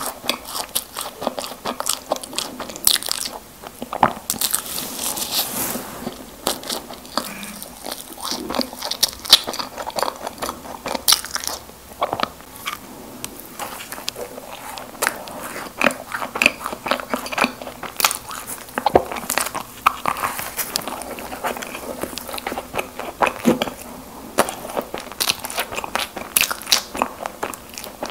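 Close-miked ASMR eating sounds of Krispy Kreme doughnuts being bitten and chewed: a continuous run of small mouth clicks and smacks.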